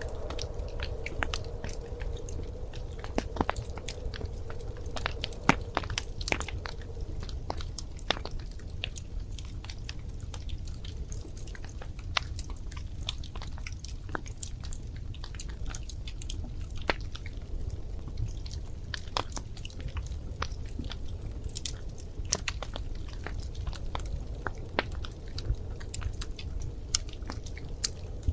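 Wood fire crackling in a fireplace: frequent, irregular sharp pops and snaps over a low, steady rumble of the flames.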